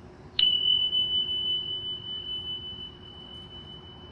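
A small bell struck once about half a second in, ringing one high, clear tone that slowly fades with a slight waver. A faint steady low hum runs underneath.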